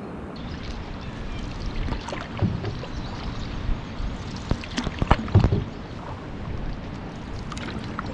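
Water lapping and sloshing against a canoe hull, with scattered knocks and clicks, the loudest about five seconds in.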